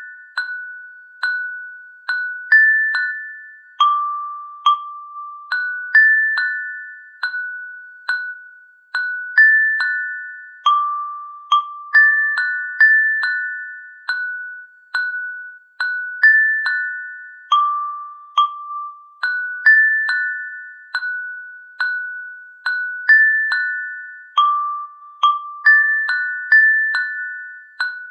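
A slow melody of bell-like struck notes, each ringing and fading, a short phrase of three or four pitches repeating over and over. No rain is heard, only the chiming tune.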